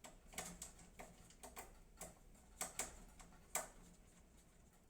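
Faint, irregular clicks and ticks of a screwdriver and screw against the metal of a PC case while a motherboard screw is fitted. They stop about three and a half seconds in.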